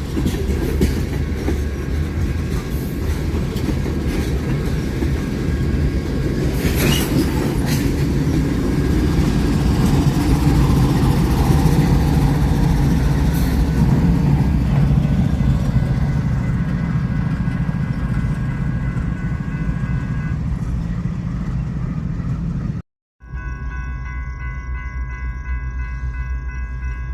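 A train rolling past with a loud, steady rumble of wheels on rail that swells toward the middle. It cuts off abruptly about 23 seconds in, and a quieter sound with several held tones follows.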